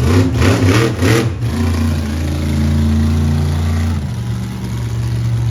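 Monster truck engine revving in about four quick sharp blips, then holding a steady note for a couple of seconds before easing off.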